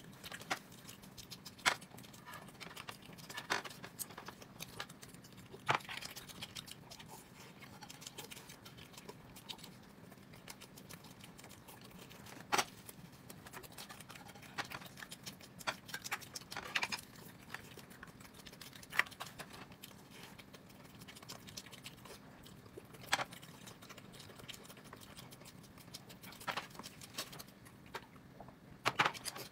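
Eating sounds close to the microphone: irregular short mouth clicks and smacks of chewing, spaced a second or more apart.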